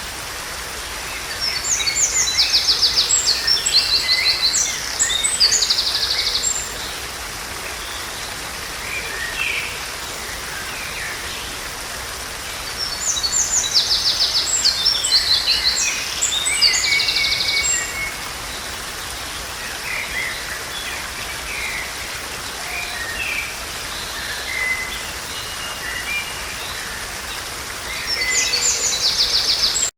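A songbird singing in loud bouts of rapid high trills, each about five seconds long and coming about every twelve seconds, with scattered shorter calls between. A steady hiss runs underneath.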